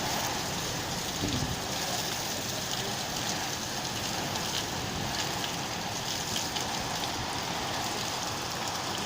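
Heavy rain pouring down in a storm: a steady hiss of rainfall with scattered drops pattering on a surface.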